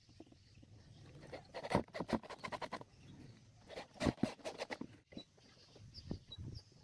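Quick runs of light knocks and taps on wooden planks, one cluster about two seconds in and another about four seconds in. Faint high chirps repeat near the end.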